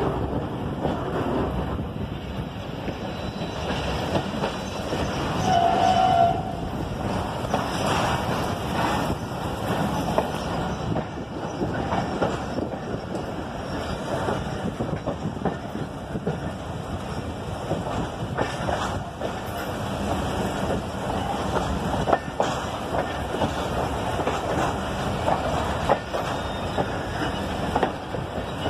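Passenger train running along the tracks, heard from an open carriage window: a steady rumble and rattle of the wheels with irregular clicks over the rail joints, and a brief tone about six seconds in.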